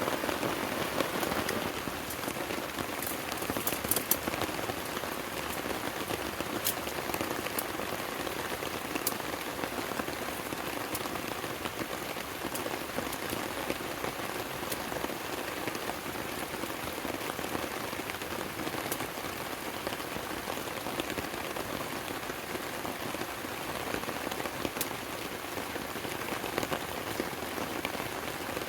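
Steady rain falling, with scattered sharp ticks of individual drops striking.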